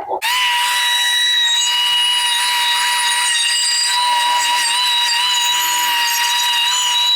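Power carving tool fitted with a long taper burr, starting up just after the start and then running with a steady high whine. Its pitch wavers slightly a few times, as the bit bites into the wood while rounding off the carved owl's eyes.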